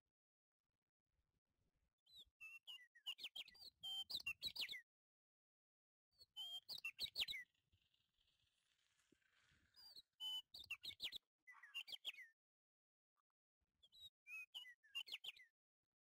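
A small bird chirping in four bursts of quick, short, falling chirps, with pauses of a second or two between bursts.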